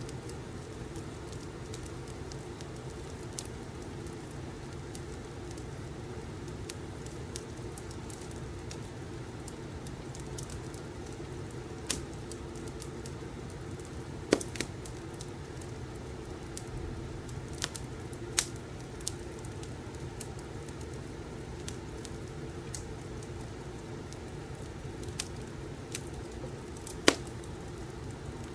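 Wood fire crackling in a fireplace: a steady low rumble with scattered sharp pops, the loudest about halfway through and near the end.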